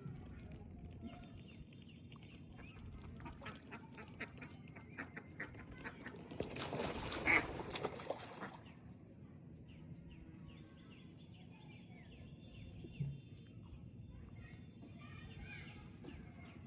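Birds calling over and over in short, harsh calls, with a louder noisy burst lasting about two seconds near the middle.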